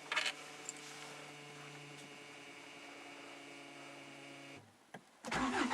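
In-tank electric fuel pump of a Hyundai Santa Fe 2.0 CRDi humming steadily with the ignition on, priming the diesel system, then cutting off about four and a half seconds in. Near the end, after a click, the starter cranks and the four-cylinder diesel engine fires.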